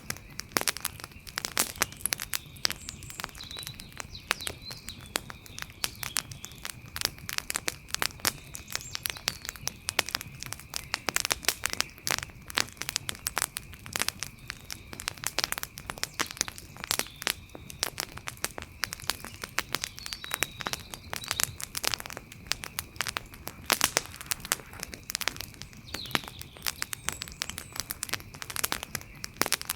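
Wood fire crackling: a dense, irregular run of snaps and pops, some louder than others, over a soft bed of flame noise.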